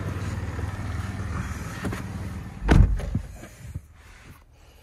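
Toyota Yaris Cross engine running with a steady low drone, heard inside the cabin. Nearly three seconds in comes a single low thump, and the engine sound then drops away to a quiet background, as the engine is switched off.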